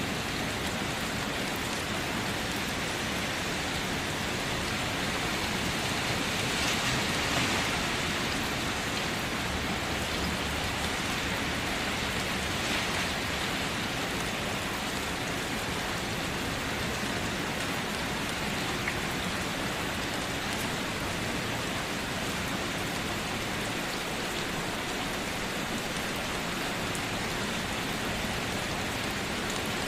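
Steady rain falling, a dense even hiss of many drops on a surface, swelling slightly about a quarter of the way through.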